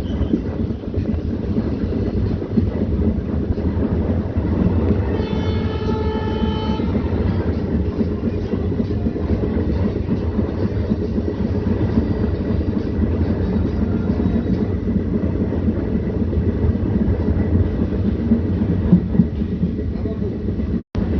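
Train running with a steady, loud low rumble from the WDM3A diesel locomotive and its coaches. A short pitched tone sounds for about a second and a half, about five seconds in.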